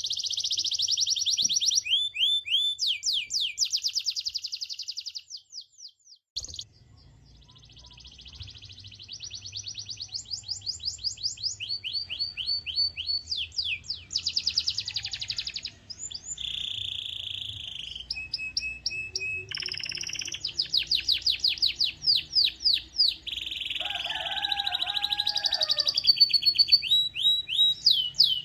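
Canary singing a long song of rapid trills and rolls, broken by a short pause about six seconds in. A lower warbling phrase comes in briefly near the end.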